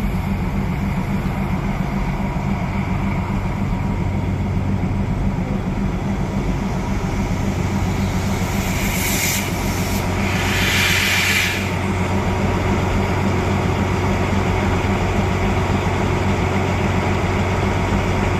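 Diesel railcar engine idling steadily with a low, pulsing hum. About halfway through, compressed air hisses for a few seconds in two spurts.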